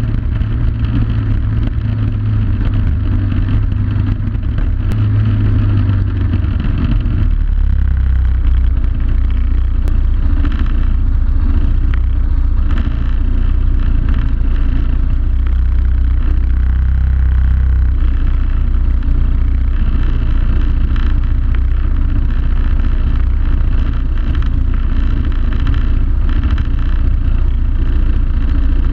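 Suzuki DR800SR's big single-cylinder engine running steadily under way off-road; its low engine note drops to a lower pitch about seven seconds in and holds there.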